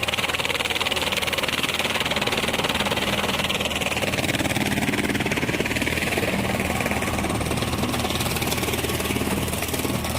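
Massey Ferguson 241 tractor's three-cylinder diesel engine running steadily.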